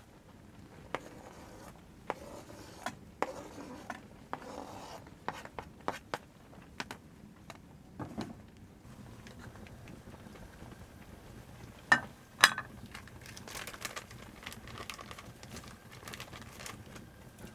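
Objects being handled: rustling, scraping and scattered small clicks, with two sharp knocks close together about twelve seconds in.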